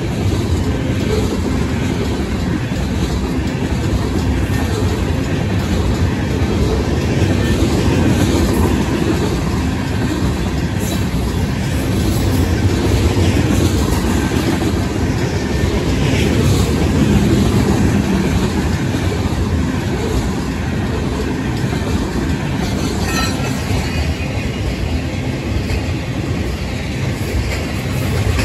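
Loaded ethanol tank cars of a freight train rolling past, a steady rumble of steel wheels on the rails.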